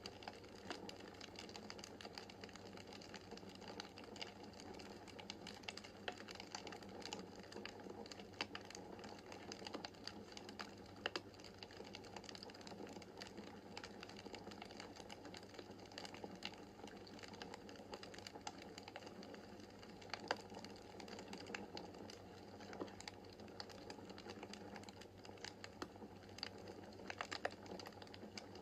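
Wood fire crackling in a fireplace: a dense, irregular stream of small sharp snaps and pops over a soft steady rush of the flames, with a few louder pops, the loudest about 20 seconds in.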